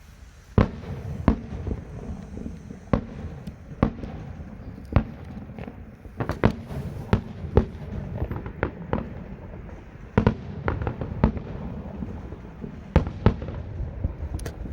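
Fireworks going off in an irregular volley of sharp bangs, about twenty in all, coming fastest in the middle, with a low rumble between them.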